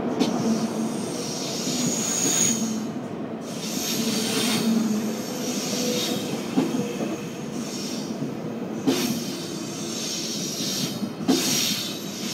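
ICE 1 high-speed train's cars rolling slowly past on a curve, the wheels squealing against the rails. Three sharp knocks, about 6.5, 9 and 11 seconds in, as wheels pass over rail joints or points.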